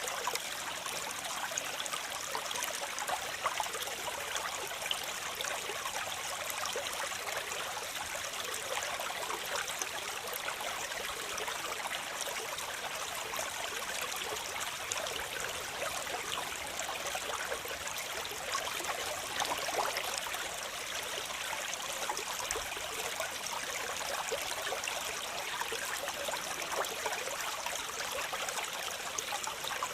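Waterfall: a steady rush of falling, splashing water, full of small splashes and with little deep rumble.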